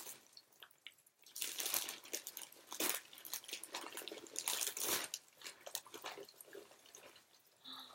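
Plastic or paper packaging crinkling and tearing in irregular bursts as a mail parcel is opened by hand.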